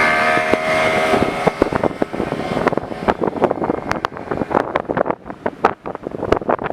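A motorboat engine running steadily, then a rapid, irregular run of sharp slaps and knocks from about two and a half seconds in, with wind on the microphone.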